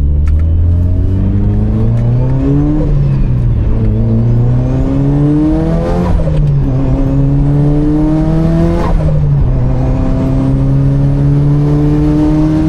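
Mitsubishi Lancer Evolution VIII's turbocharged four-cylinder engine accelerating hard through the gears. The pitch rises, then drops three times, about 3, 6 and 9 seconds in, at each upshift, and climbs again near the end.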